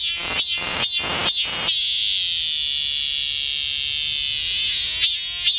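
Cicada singing close by: a run of short rising pulses, about two a second, breaks into one steady high buzz lasting about three seconds, then the rising pulses start again near the end.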